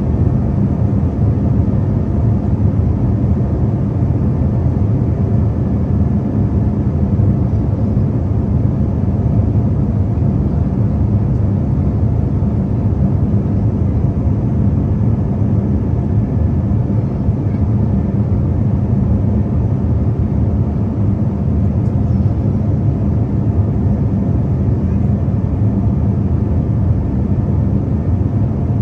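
Steady low cabin drone of a jet airliner in flight: engine and airflow noise heard from a window seat, even and unbroken.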